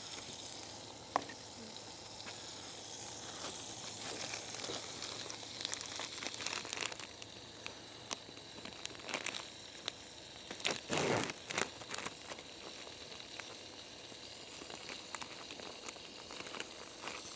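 Bagel sandwiches frying in butter in a pan, a steady sizzle with scattered small clicks and pops. A louder, brief clatter or scrape comes about eleven seconds in.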